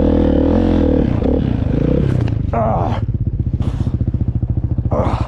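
Dirt bike engine running, high and steady at first, then easing down over a couple of seconds into a fast, even putter.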